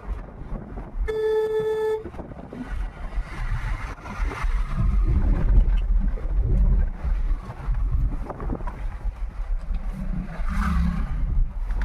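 Car driving along, with a steady low rumble of engine, tyres and wind. A vehicle horn honks once for about a second, about a second in.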